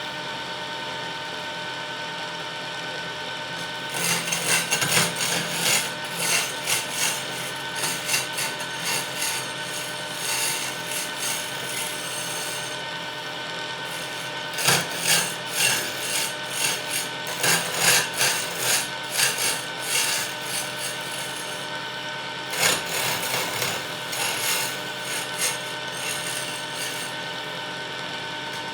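Wood lathe running with a steady motor whine. About four seconds in, a tool starts working against the spinning wood, scraping and rasping in irregular bursts. The scraping pauses briefly near the middle, then resumes until the end.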